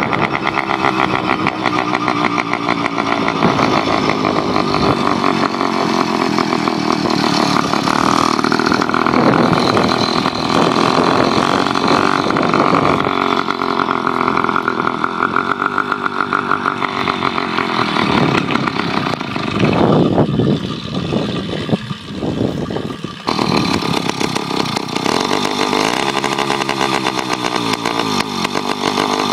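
66cc Skyhawk two-stroke engine on a motorized bicycle running under way, its pitch rising and falling with the throttle. About twenty seconds in it drops to a lower, rougher note for a few seconds, then picks back up.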